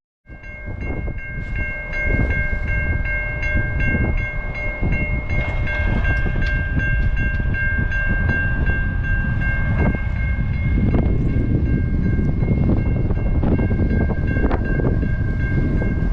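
A train rumbling past with repeated wheel clicks. Above it, a set of high ringing tones pulses rapidly and then rings on almost without a break, like a level-crossing bell.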